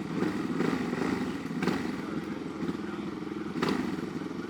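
Small off-road vehicle engine running steadily at low revs, with a couple of sharp clicks partway through.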